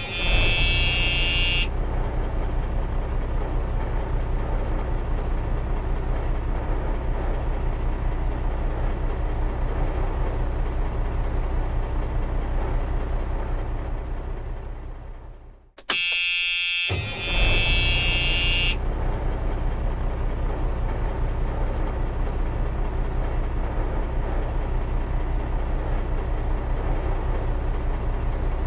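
Heavy truck's diesel engine running steadily. It fades out about halfway through and cuts back in. Each start is led by about two seconds of a shrill buzzing tone, at the very beginning and again halfway.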